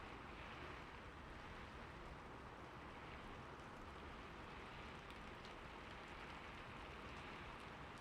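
Faint, steady rain falling, an even hiss of drops with the odd sharper drop standing out.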